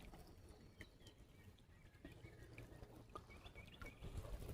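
Near silence: faint creekside ambience with a few faint, short bird chirps.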